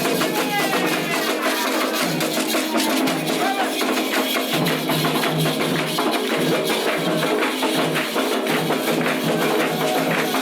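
Candomblé ritual percussion: drums and struck percussion playing a steady, dense rhythm, with voices mixed in.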